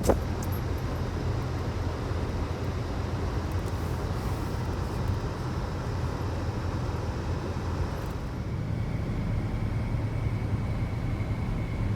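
Third-generation Toyota 4Runner on the road: a steady low engine and road hum. A faint thin high whine joins about two-thirds of the way through.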